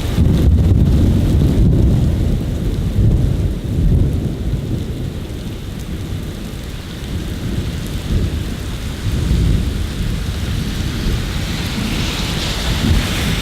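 Rolling thunder rumbling over steady rain, the rumble loudest in the first few seconds and swelling again later on. Rain hiss brightens near the end.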